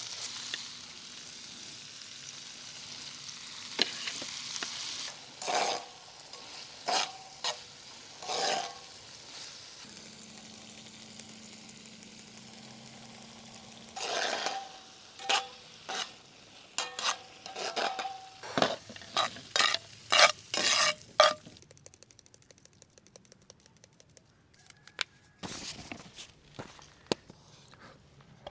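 Food sizzling in a frying pan while a utensil stirs and scrapes it, with repeated short scrapes and clinks against the pan. About three quarters of the way through the sizzling stops, leaving a few scattered clicks.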